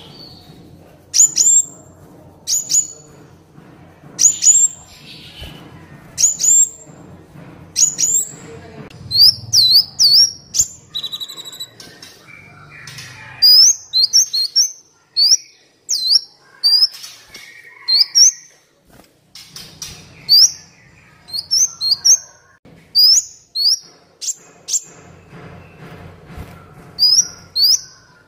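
Kolibri Wulung sunbird singing: short, sharp, high chirping notes that sweep in pitch. They come about one every second and a half at first, then in quicker runs of several notes from about halfway through. A faint low hum comes and goes beneath.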